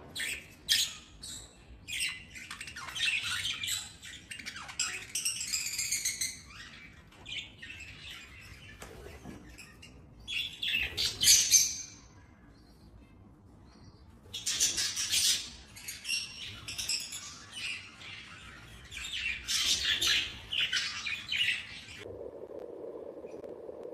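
Budgerigars chirping, chattering and squawking in irregular bursts of warbling calls. Near the end the calls stop and a steady hum takes over.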